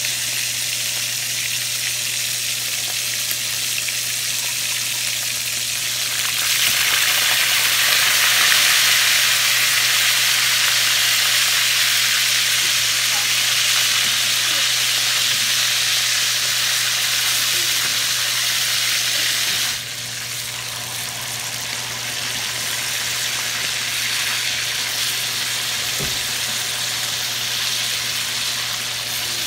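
Marinated pork chops frying in hot oil in a small pan, a steady sizzle with tongs turning the meat. The sizzle grows louder about six seconds in and drops back abruptly about twenty seconds in.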